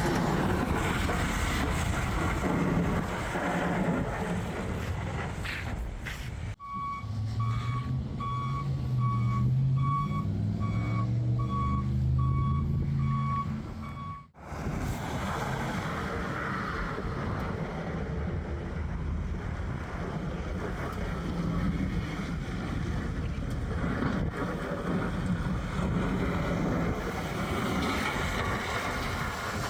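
A truck's reversing alarm beeping about once a second for several seconds over its running engine, with steady truck driving noise before and after.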